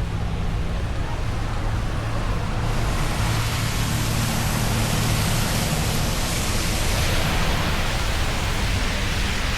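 Vehicle traffic on a wet street: a steady low engine hum, with hiss from tyres on wet pavement swelling about three seconds in and easing off near the end.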